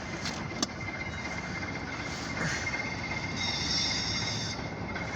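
A short freight train of tank cars moving through a rail yard, heard from a distance as a steady rolling noise. There is one sharp click under a second in, and a thin high squeal for about a second around three and a half seconds in.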